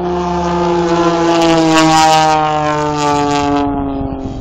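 An aircraft flies low past. Its engine tone swells to a peak about two seconds in, then fades, the pitch sliding down as it goes by.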